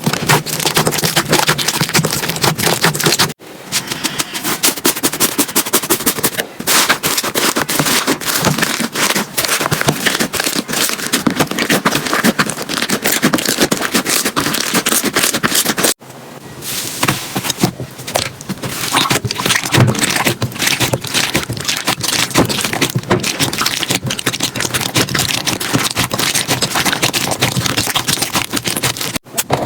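Slime being pressed and squished by hand, a dense run of crackling and popping, broken by short gaps where one clip cuts to the next, about three seconds in, at about the middle and near the end.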